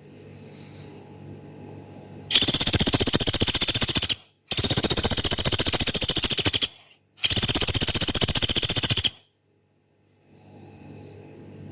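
Pelatuk beras, a small woodpecker, giving three long, harsh, very rapid high-pitched trills of about two seconds each in quick succession, over a faint low hum.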